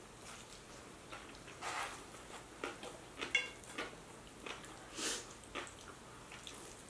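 Close-miked eating sounds: chewing and biting into sub sandwiches and spicy instant noodles, with irregular short smacks and clicks.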